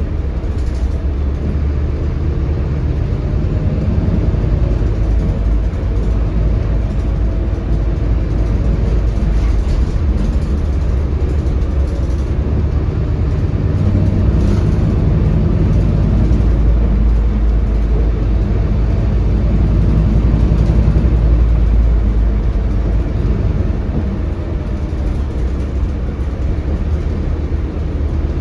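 Scania K320HB bus's DC9 diesel engine and road noise heard from on board while the bus is moving, a steady deep drone whose loudness swells and eases a few times.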